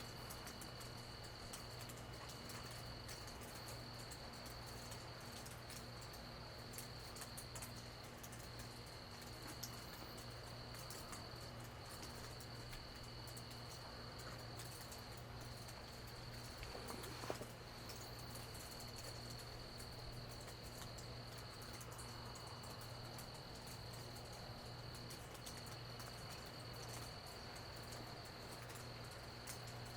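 Night insects trilling steadily at a high pitch, with brief breaks, over a low steady hum and scattered faint ticks of dripping rain. A short louder sound stands out about 17 seconds in.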